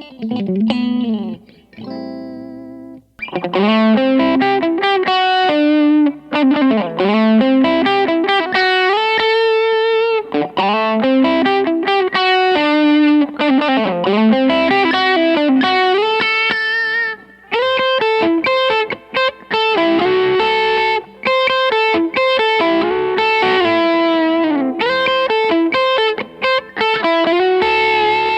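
PRS Modern Eagle V electric guitar played solo through an amplifier with overdrive, in lead licks with fast runs and bent notes. It opens softly with a few held notes, then turns loud and dense about three seconds in.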